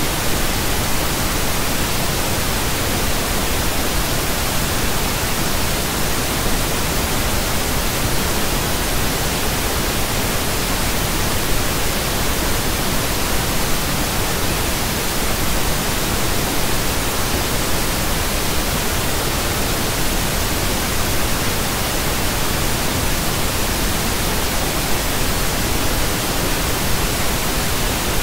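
Pink noise: a steady, even hiss spread evenly across the whole range.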